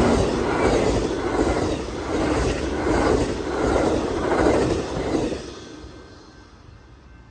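Amtrak passenger train rolling past, its wheels clacking over the rail joints in a soft, regular pulse about every half to three quarters of a second. It fades away about five and a half seconds in as the train recedes.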